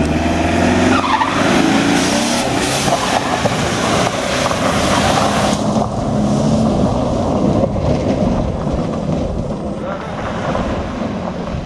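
Off-road car's engine running hard under high revs, with a loud, dense rushing noise over it. The noise eases a little about halfway through.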